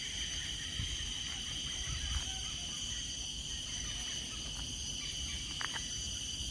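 Steady high-pitched drone of an insect chorus, several unbroken tones held throughout, over a low rumble of wind on the microphone.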